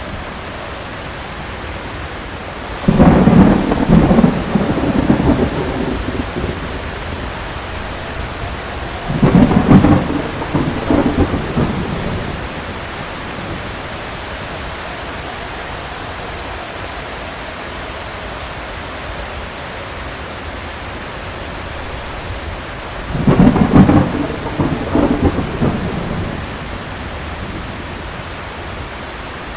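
Heavy rain falling steadily, with three claps of thunder: about three seconds in, about nine seconds in and about twenty-three seconds in, each loud at the start and rumbling away over two or three seconds.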